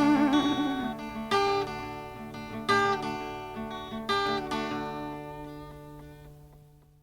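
The closing bars of a song: an acoustic guitar plucks a few last notes over a held low note. The notes ring and fade out to silence near the end.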